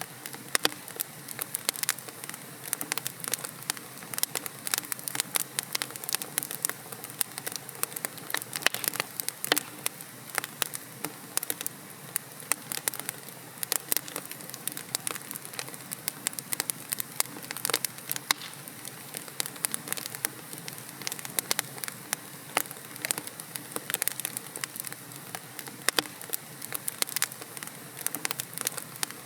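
Wood fire burning in a fireplace: logs crackling and popping with many irregular sharp snaps over a steady soft hiss.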